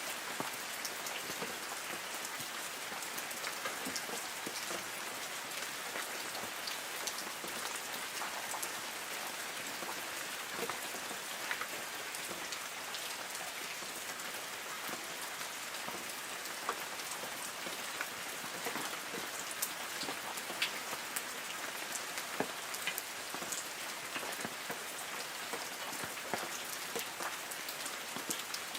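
Light rain falling on forest trees: a steady patter with many separate drops ticking on leaves.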